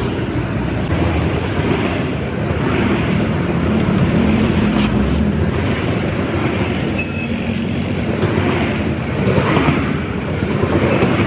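Steady roadside vehicle and traffic rumble, with a short high chirp about seven seconds in.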